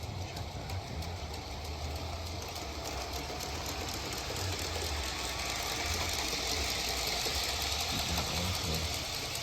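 Playmobil 4050 G-scale diesel locomotive running under heavy load, its small electric motor humming steadily as it pulls a long train of metal-wheeled cars over LGB track. The wheels click steadily over the rails. The sound grows louder about halfway through.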